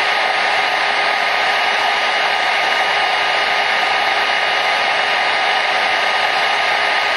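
Hair dryer running steadily: an even, unbroken hiss of rushing air with a faint steady whine from the fan motor.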